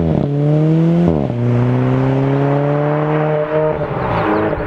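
Alfa Romeo 4C's turbocharged 1.75-litre four-cylinder accelerating hard through the gears. Its pitch climbs, drops sharply at two quick upshifts (at the start and about a second in), then rises more slowly in the higher gear.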